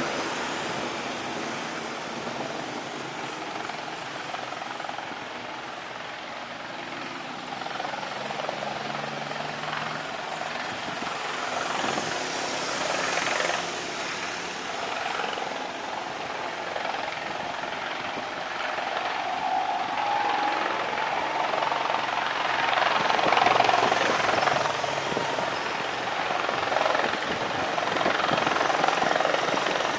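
Aircraft engine noise, a steady rushing that swells louder about two-thirds of the way through.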